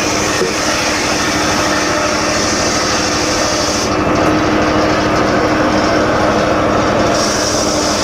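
Homemade engine-driven circular saw rig running steadily, with a constant hum. A higher-pitched edge fades about four seconds in and returns about seven seconds in.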